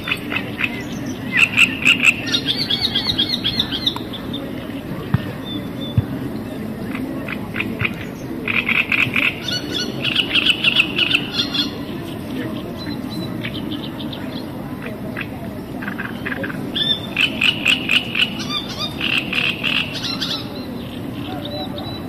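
A bird singing three phrases of rapid, repeated chattering notes, each two to three seconds long, over a steady low background hum.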